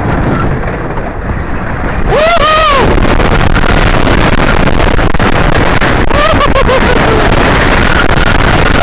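Loud, steady rush of wind over the microphone on a moving roller coaster, with a rider's rising-and-falling scream about two seconds in and another around six seconds in.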